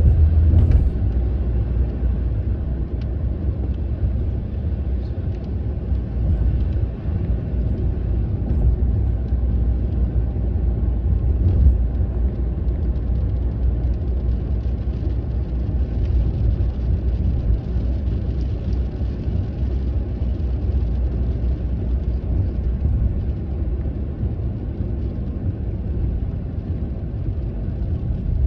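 Steady low rumble of a car on the move, heard from inside the cabin, with light rain falling on the car.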